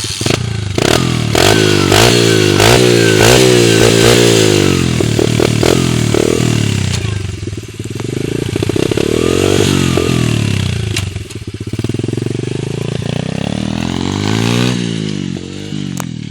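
125cc motocross motorcycle engine revving hard, its pitch climbing and dropping quickly over and over in the first few seconds, as with gear changes, then rising and falling more slowly.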